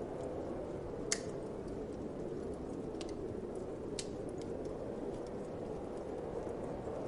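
Steady whooshing winter wind with a wood fire crackling over it: scattered sharp pops, the loudest about a second in and two more near three and four seconds in.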